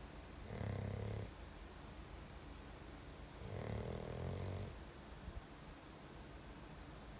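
A dog snoring in its sleep: two snores about three seconds apart, the second one longer.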